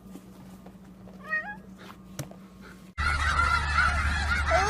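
One short, meow-like animal call with a stepped pitch about a second in. A little before the end, a flock of domestic fowl breaks into loud, crowded, overlapping calls.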